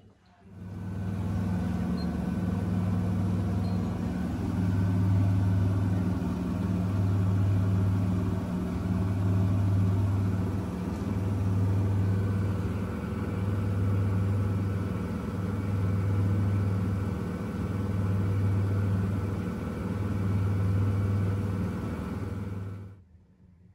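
Washing machine running with a loud, steady hum that swells and fades about every two seconds. It starts and stops abruptly.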